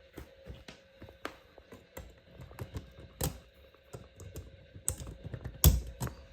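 A run of irregular light clicks and taps, like typing or handling small objects, with one louder knock near the end.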